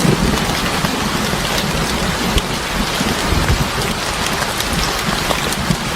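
Steady rain falling on a surface: an even hiss dotted with many small, sharp drop ticks.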